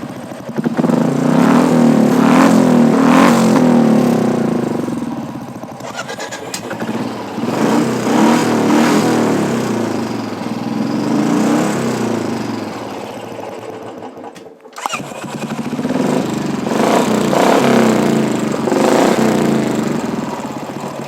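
Royal Enfield Classic 350 single-cylinder engine revving through an aftermarket exhaust, swelling and falling back several times, with a brief break about two-thirds of the way through.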